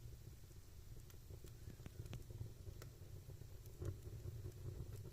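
Fire burning in a fireplace: a faint low steady rumble with scattered small crackles and pops.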